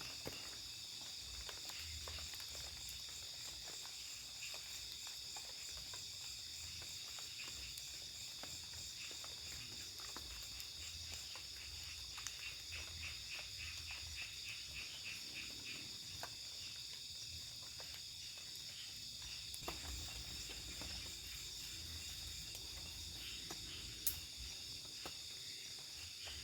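Night insect chorus: crickets shrilling steadily and high-pitched, with a run of rapid pulses about halfway through and a single sharp click near the end.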